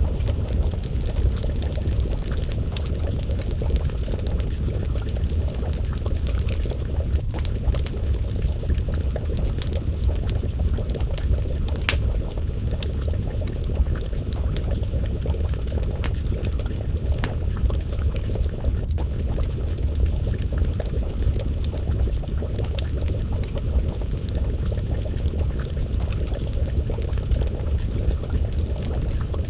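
Wood fire crackling, with scattered sharp pops over a steady low rumble, and a pot of stew bubbling at a simmer.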